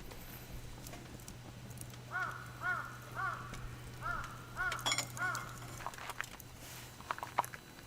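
A crow cawing six times in quick succession, about two calls a second, with scattered sharp clicks and a faint steady low hum underneath.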